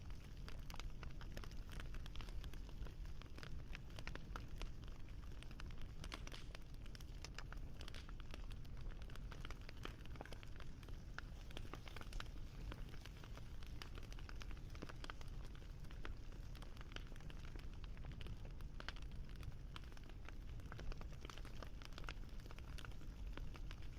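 Wood fire crackling: dense small pops and snaps over a soft low rumble of burning.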